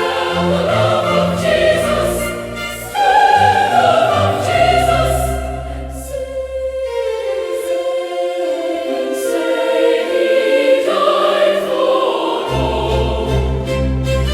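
Choir singing a hymn in slow, sustained chords. Midway the low voices drop out for several seconds, leaving the upper parts on a long held note, then come back in.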